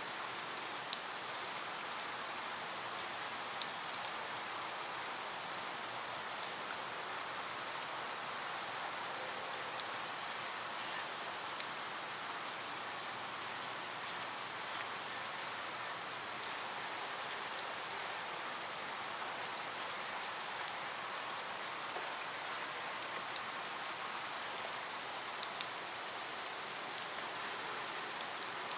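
Steady rain falling on a surface, with frequent sharp drips and drops pattering through the even hiss.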